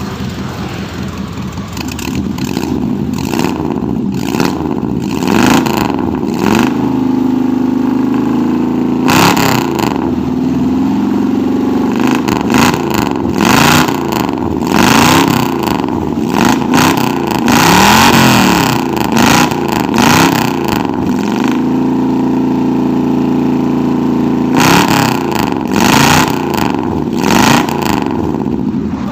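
Car engine revved through an aftermarket racing exhaust. Short, quick throttle blips alternate with longer revs that climb and fall back, and there is a run of blips again near the end.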